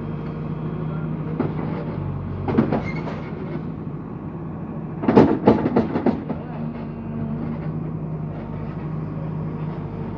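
An engine runs steadily under two bursts of rapid clanking knocks: a short burst about two and a half seconds in, and a louder run of several knocks about five to six seconds in.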